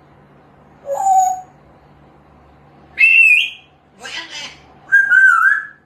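African grey parrot whistling: a short rising note about a second in, then a high wavering whistle, a brief rasping call and a lower warbling whistle in the second half.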